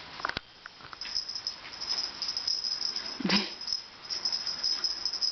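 Small dog chewing and worrying a dragon toy, a steady rattling, crinkling noise broken by clicks. Near the middle there is a brief growl.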